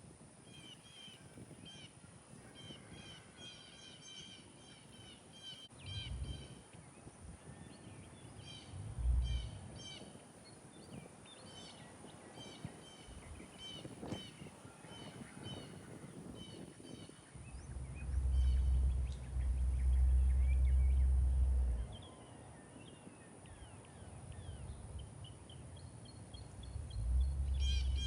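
Backyard birds chirping and calling in quick series of short, high notes, with several bursts of low rumble, the longest lasting about four seconds past the middle.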